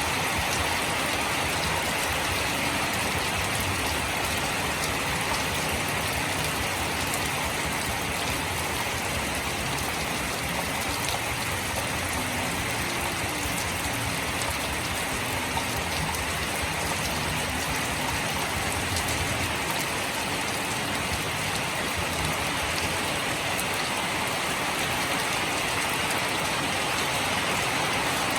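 Steady rain falling and pattering on surfaces, an even hiss with scattered drop clicks and a faint low rumble underneath.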